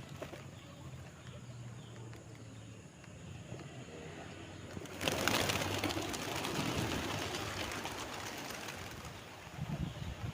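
Domestic pigeons cooing in low, repeated tones. About halfway through a louder rustling noise comes in and lasts several seconds.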